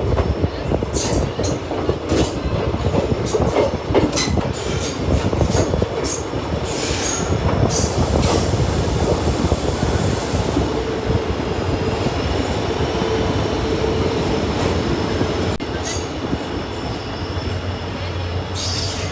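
Passenger train running on the rails: a steady rumble with sharp metallic clacks and rattles through the first half. A steady whine rises out of it for about five seconds past the middle.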